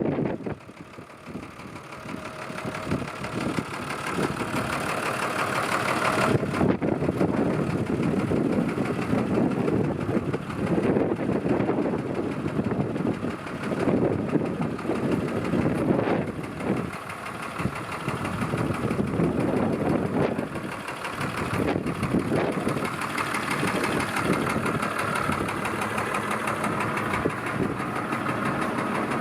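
Diesel engine of a 2003 New Holland four-wheel-drive tractor running, quieter for the first few seconds and then fairly steady, with its level rising and falling.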